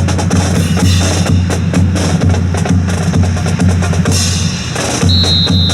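Drum music with a steady bass-drum beat about twice a second, snare strokes and sharp clicks. A high steady tone comes in near the end.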